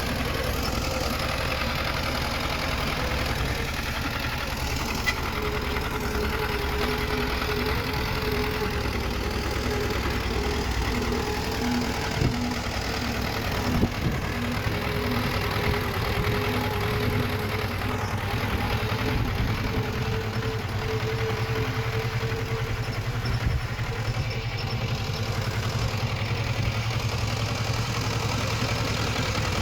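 Diesel engine of earthmoving machinery running steadily, with a few short knocks or clanks around the middle.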